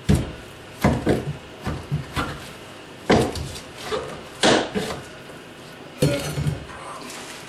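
Old dry-rotted wooden shelving being knocked and pried apart by hand: a series of irregular sharp wooden knocks and clatters.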